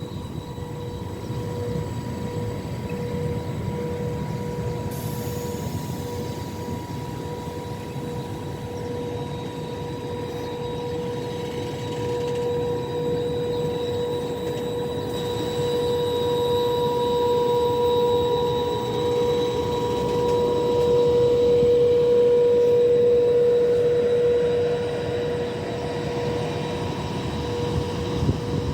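Train at the railway station, a steady rumble with a constant electric hum that grows louder, peaks about three-quarters of the way in, then eases off.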